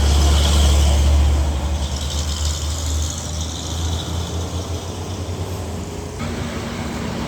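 A heavy truck driving past on the road: a deep engine rumble, loudest in the first second or so and then fading, with a hiss of tyre and road noise.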